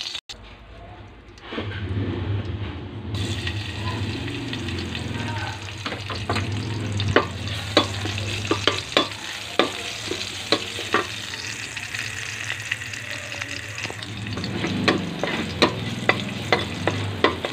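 Chopped garlic sizzling in hot oil in a metal pan while a spatula stirs it. The spatula scrapes and clicks against the pan, the clicks coming often from about six seconds in.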